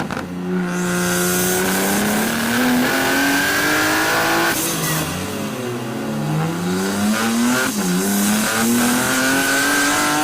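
Car engine accelerating hard, its pitch climbing steadily and dropping back twice, about halfway through and again near three quarters through, as it shifts up through the gears, over a steady hiss of road and wind noise.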